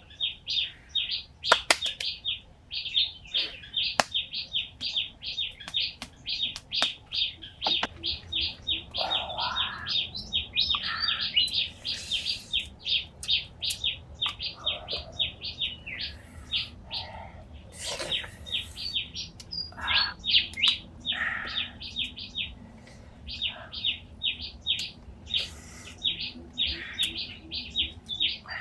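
A bird chirping over and over, short high notes at about four to five a second, with a few sharp clicks and knocks scattered through.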